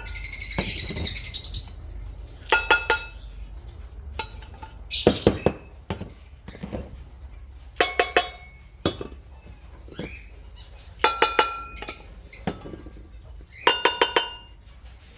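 Dishes clinking together in short clusters about every two to three seconds, each knock ringing briefly, as feeding bowls are handled. A bird chirps loudly in the first second or so.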